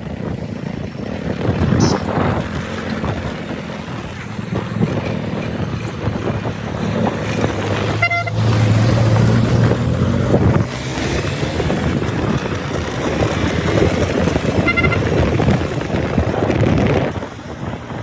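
Motorcycle riding in road traffic: steady engine and road noise with wind on the microphone. Vehicle horns toot briefly, about eight seconds in and again near fifteen seconds.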